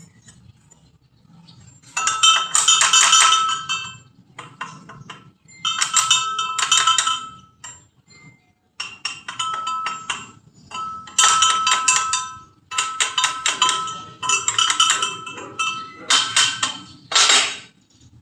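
Metal being struck in rapid runs of taps, the workpiece ringing with each run. The runs come in about eight bursts of one to two seconds with short pauses between.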